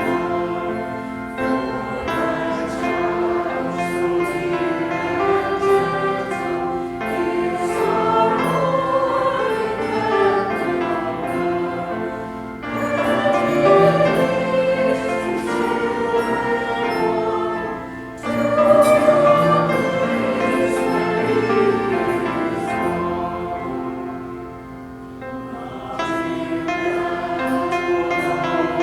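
A church choir singing, in long phrases that break off about twelve and eighteen seconds in, with a softer passage near the end.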